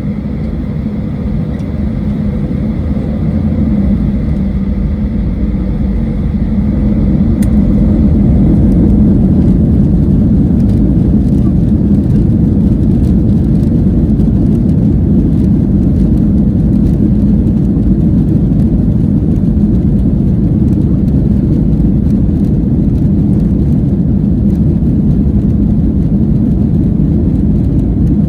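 Jet engines of a Boeing 737-800 (CFM56 turbofans), a deep rumble that grows louder over the first eight seconds and then holds steady.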